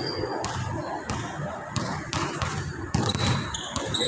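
Basketballs bouncing on a court floor: scattered sharp bounces over the steady background noise of a crowded court, with a few short high squeaks near the end.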